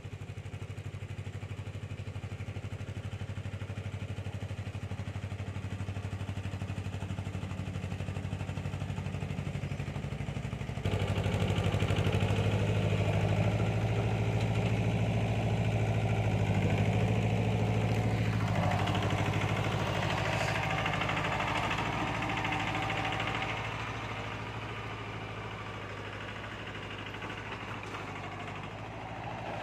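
Mahindra tractor's diesel engine idling steadily with an even pulsing beat. About eleven seconds in it turns suddenly louder and brighter without rising in pitch, then drops back about twelve seconds later.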